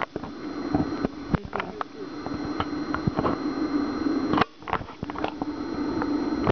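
Honey bee swarm buzzing as a steady low hum, with scattered clicks and knocks over it; the hum drops out briefly about four and a half seconds in.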